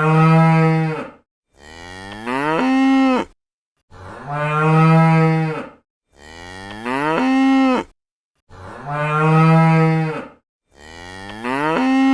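Cow mooing repeatedly: about six moos, each a second and a half to two seconds long, separated by short silences. They alternate between a steady low moo and one that rises in pitch before levelling off.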